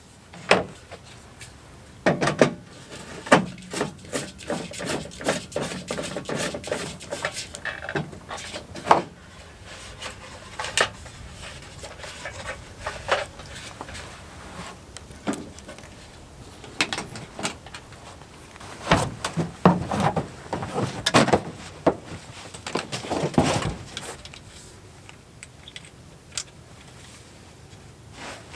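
Objects being handled and moved about: irregular knocks, clunks and rustling, in two busy spells with quieter gaps between.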